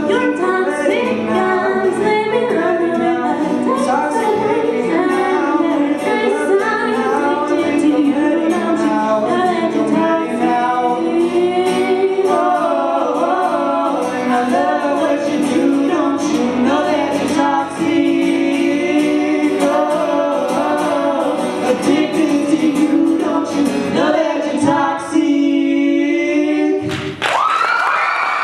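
Several voices singing in harmony, closing on a long held note; applause breaks out suddenly right at the end.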